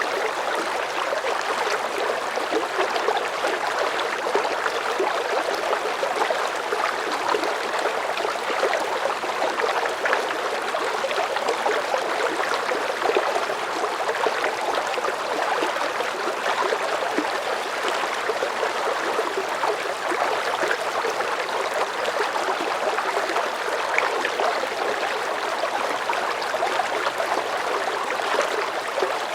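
A medium river current flowing: steady rushing and gurgling water with fine splashing detail, even throughout.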